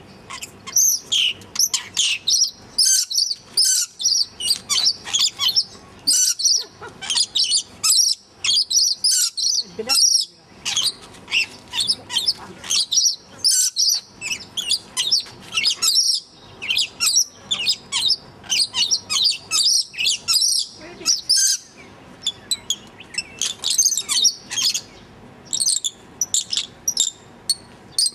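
Small birds chirping and chattering in rapid, high-pitched bursts, with a few short pauses.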